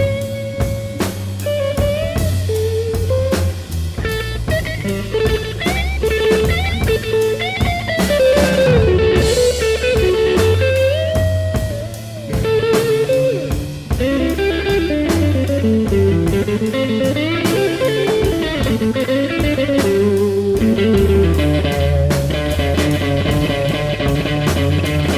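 Slow electric blues, instrumental: an electric guitar plays a lead line full of bent, sliding notes over bass and a drum kit.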